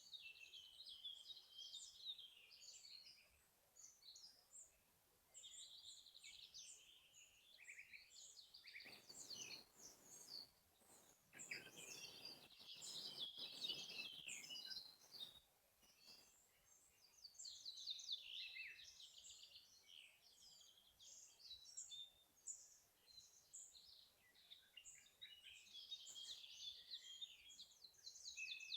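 Faint chorus of several small songbirds singing overlapping high-pitched trills and chirps. A rush of wind through the trees rises for a few seconds about nine seconds in and fades again by about fifteen seconds.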